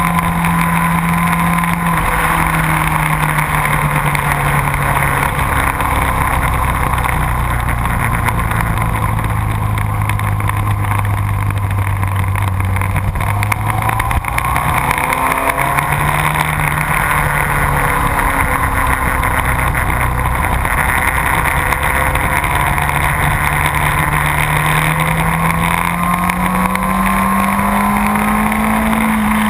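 Motorcycle engine running hard on a race track. The engine note drops in steps through roughly the first half, jumps back up just after halfway, then climbs steadily over the last several seconds as the bike accelerates.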